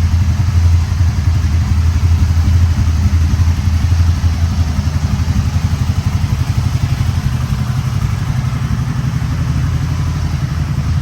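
Can-Am Spyder three-wheeled motorcycle engine idling steadily, close by.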